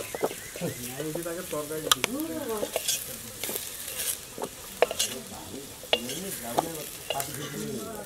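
Cubed potatoes sizzling in hot oil in a large kadai while a spatula stirs them, with sharp clinks of the spatula against the pot scattered through.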